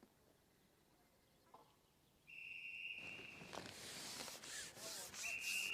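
Faint near-quiet, then from about two seconds in, rustling and rubbing against the microphone, with a high steady whistle sounding twice, a longer blast and then a shorter one near the end: the whistle ending the match.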